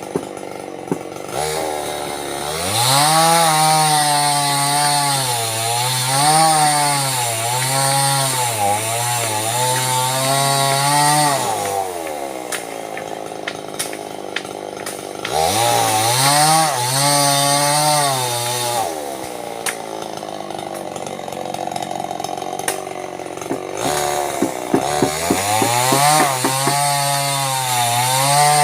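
Small two-stroke chainsaw revved up three times to cut sengon (albizia) wood, its pitch rising and falling while it cuts, and dropping back to idle in between.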